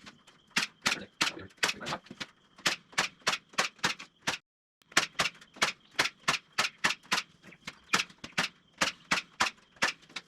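Staple gun driving staples into wood in quick succession, fastening wire mesh to a frame: a rapid series of sharp snapping clicks, about three to four a second, broken once by a short gap a little under halfway through.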